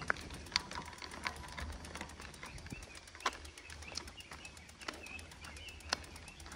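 Wild birds calling and singing: short sharp notes at irregular intervals over a faint high warble, with a low steady rumble beneath.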